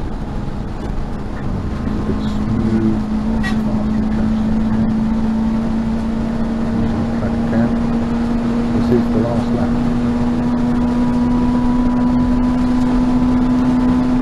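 Peugeot 205 GTI 1.9's four-cylinder engine running hard at high revs inside the race car's cabin, heard with road and wind noise. Its steady note breaks off for a moment about a second in, then holds and slowly climbs.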